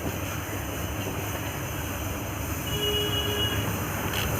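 Steady low rumbling background noise, with a faint thin squeak lasting about a second near the middle.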